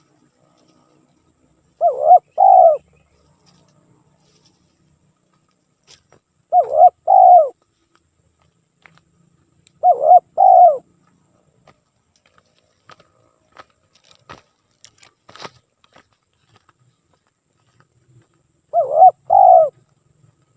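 Spotted dove cooing: four two-part coo phrases, several seconds apart, played as a lure call to draw in wild doves.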